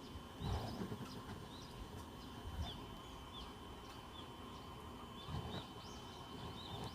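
Small birds chirping: short, high, arched chirps repeated irregularly throughout. Two brief low rumbles, about half a second in and again around five seconds, sound like wind or handling on the microphone.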